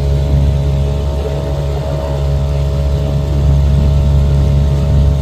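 Outboard motor of a small dinghy running at a steady pace, a constant low engine hum with no change in speed.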